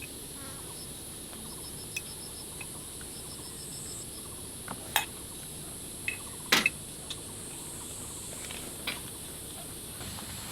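A utensil clinking against a bowl now and then during a meal, with the strongest clinks a little before and after the middle. Insects keep up a steady high drone with repeated chirps behind it.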